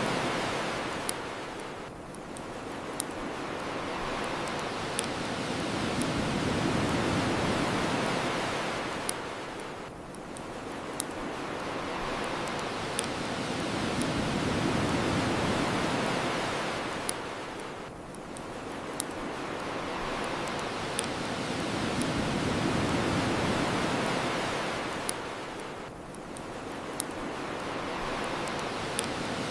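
Ocean waves washing on a shore, the rush swelling and ebbing about every eight seconds, with the sharp pops of a crackling bonfire every second or two.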